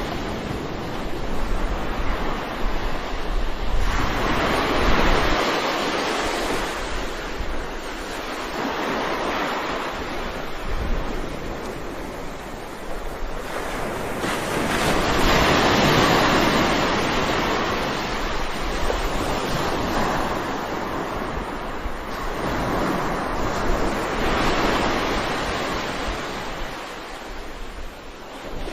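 Ocean waves breaking and washing on the shore, a continuous surf that swells and fades every few seconds, with the loudest surge about halfway through.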